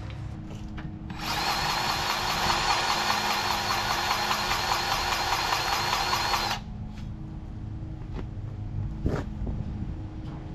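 Battery-powered grease gun motor running for about five seconds, pumping grease into a fitting on the excavator's undercarriage, with a steady whine that wavers slightly. A single sharp click follows near the end.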